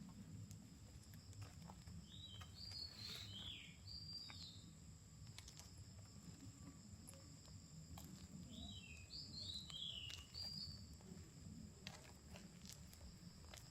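A songbird sings two short, quick warbling phrases, the first about two seconds in and the second past the middle, over a steady high-pitched drone of insects. A faint low rumble and scattered soft ticks run underneath.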